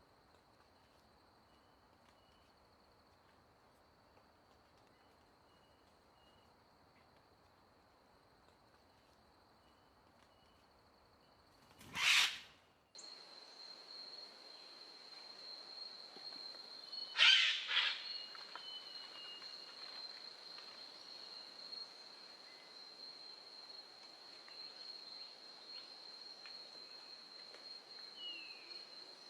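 Quiet outdoor ambience with a steady high-pitched whine throughout and a few faint short bird chirps. A brief loud noise about twelve seconds in and another about seventeen seconds in; after the first, the background is a little louder.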